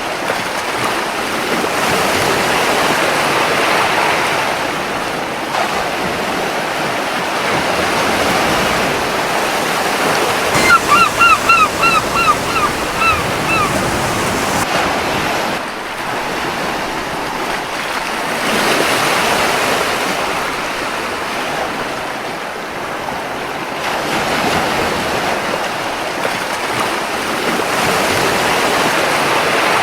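Ocean surf washing on a beach, swelling and easing every several seconds. About a third of the way in, a seagull gives a quick run of about eight short calls.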